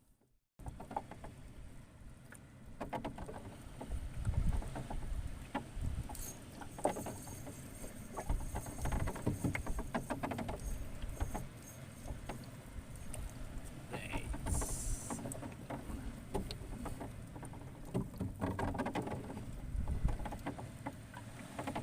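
Shallow seawater sloshing and lapping, with scattered small taps and knocks.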